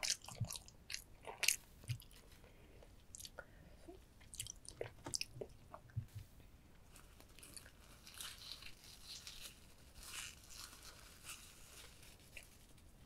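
Close-miked biting and chewing of soy-sauce-marinated rock crab (dolgejang): a run of sharp crunches as the shell cracks between the teeth in the first half, then softer, wetter chewing.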